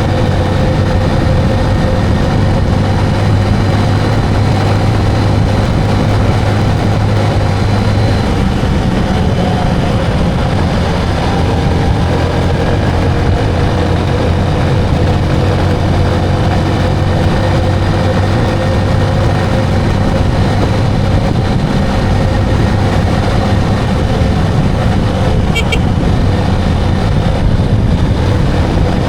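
Motorcycle engine running steadily under way, with road noise, its pitch holding nearly even throughout.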